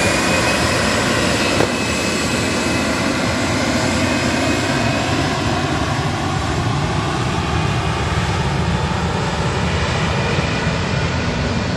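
Airliner engines running, a steady dense rush with faint high whine tones over it; a single short click about a second and a half in.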